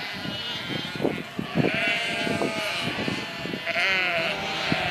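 A flock of sheep and lambs bleating, several overlapping calls, some low and some high and thin, with short knocks and rustles among them.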